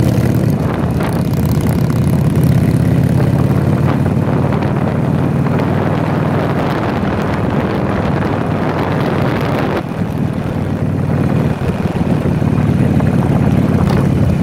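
Harley-Davidson Sportster V-twin motorcycle engines running steadily while under way, with rushing wind noise over them. The engine note dips briefly about two-thirds of the way through, as if the throttle is eased off, then picks back up.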